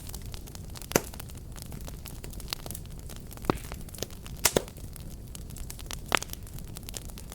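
Fireplace fire crackling: a steady low rumble of flames under a constant patter of small crackles, with a handful of sharp pops, the loudest about a second in and two close together about four and a half seconds in.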